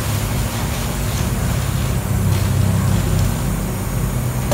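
Steady low hum of a running electric motor, with a faint hiss above it.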